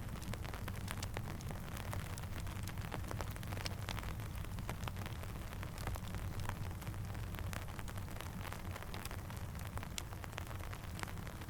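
Steady rain mixed with a crackling campfire: many small, sharp, irregular ticks over an even hiss, with a low steady rumble underneath.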